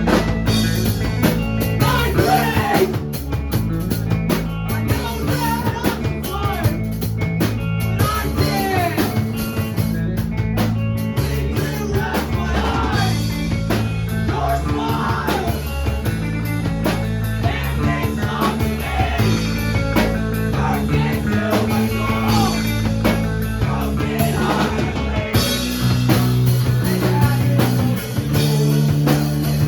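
Live math-rock/emo band playing a song: drums, a moving bass line and guitar, with a voice singing over it. About three-quarters of the way through the band hits a fuller, louder section with more cymbal wash.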